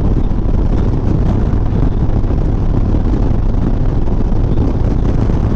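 Wind rushing over a helmet microphone on a Harley-Davidson Softail Sport Glide at highway speed, with the motorcycle's engine running underneath, a loud steady noise.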